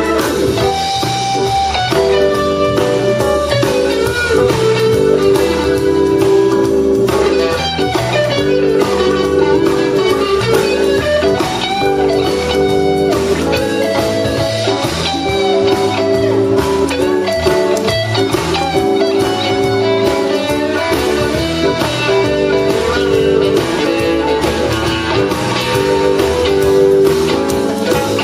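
Blues band playing an instrumental break between verses, led by electric guitar with notes that bend up and down.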